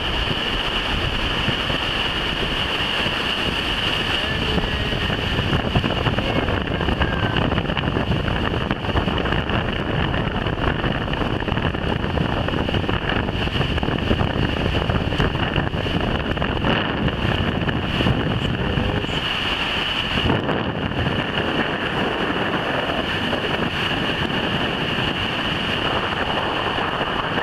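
Strong wind buffeting the microphone over a steady rush of breaking surf and floodwater.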